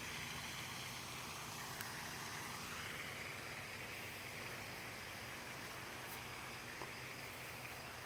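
Faint, steady outdoor night ambience: an even hiss with a soft, high, steady hum that grows a little about three seconds in, and two tiny ticks.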